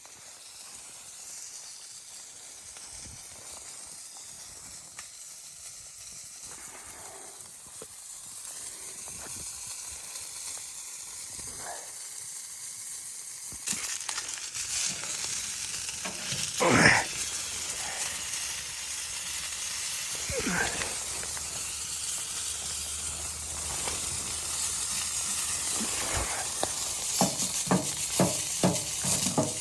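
Food sizzling in a pan, the sizzle growing suddenly louder about halfway through, with a loud knock soon after and quick scraping strokes of stirring near the end.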